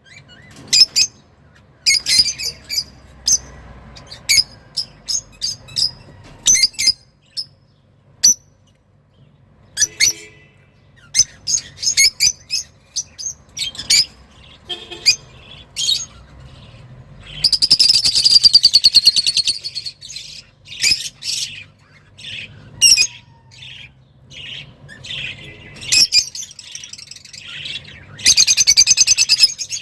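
A songbird singing excitedly: runs of quick high chirps broken by short pauses, with two loud, longer rapid trills about halfway through and near the end.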